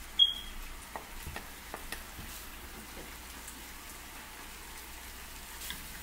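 Diced bacon frying in a hot pan: a steady sizzle with scattered pops and crackles. A short high-pitched clink sounds just after the start.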